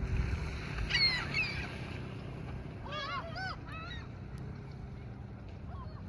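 Seagulls calling: a brief call about a second in, then a run of several arched calls around three to four seconds in, over a steady low rumble.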